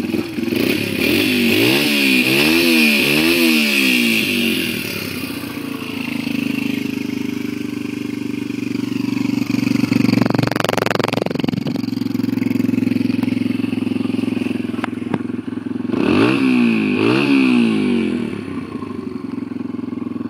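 2006 Yamaha TTR 125 dirt bike's single-cylinder four-stroke engine running at idle just after being kick-started, with a few quick throttle blips about two seconds in and again about sixteen seconds in. A short burst of noise comes about ten seconds in.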